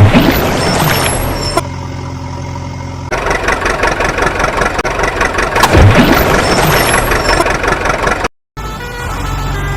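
Truck engine sound effect running steadily, with a loud hit right at the start and another about six seconds in, each trailing off in a falling sweep; the engine sound grows busier and more rattly from about three seconds in, and cuts out briefly near the end.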